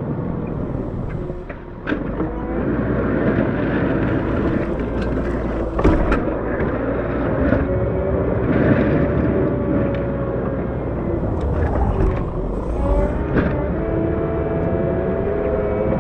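Cat 908 compact wheel loader's diesel engine running steadily while plowing snow, with whining tones that shift in pitch and a few sharp knocks about 2, 6 and 12 seconds in.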